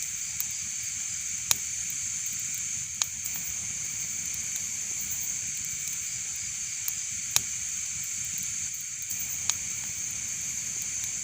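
Wood fire burning: a steady hiss with a handful of sharp crackling pops, the loudest about one and a half seconds in and about seven seconds in.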